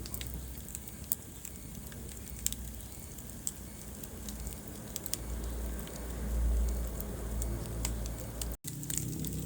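Wood fire burning in a fireplace: a steady low rumble of flames with scattered sharp crackles and pops. The sound cuts out for an instant near the end.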